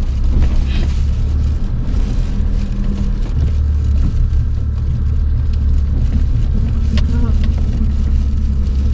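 Steady low rumble of a car's engine and tyres, heard from inside the cabin while driving on a rough, waterlogged road.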